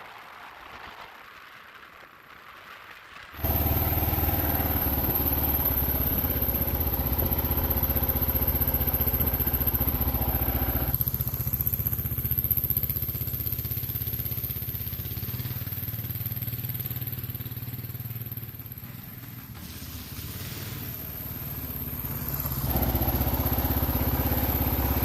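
Kawasaki KLR 650 dual-sport motorcycle's single-cylinder four-stroke engine running under way. It comes in loud a few seconds in, drops back around the middle as the throttle eases, and pulls harder again near the end.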